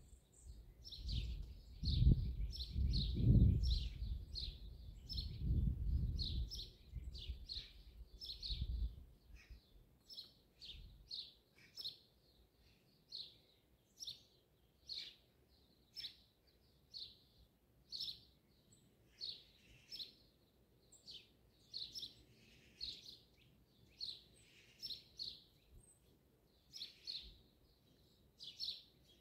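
Small birds chirping, short high chirps repeated roughly once or twice a second. A low rumble underlies the first nine seconds, loudest around two to three seconds in, then fades, leaving the chirps alone.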